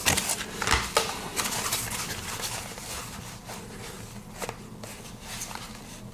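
Handling of a small cardboard knife box and its packaging tape: a cluster of taps and rustles in the first two seconds, then fainter scattered rustling and a single click about four and a half seconds in.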